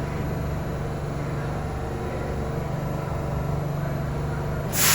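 New York City subway train in the station, a steady low hum of its motors and equipment. Near the end a sudden loud burst of air hiss, typical of a subway car's pneumatic brakes or doors venting air.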